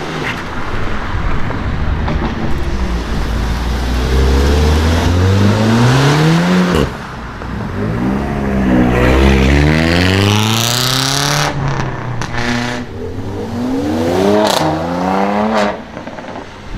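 Sports cars with aftermarket exhausts accelerating hard away. The engine pitch climbs in several runs, each cut off by a sudden drop at an upshift, with a few sharp exhaust cracks at some of the shifts.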